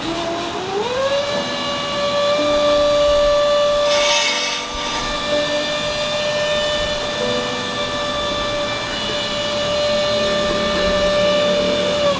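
A small motor spins up, rising in pitch over about a second, then runs at a steady whine, with a brief hiss about four seconds in; it winds down right at the end.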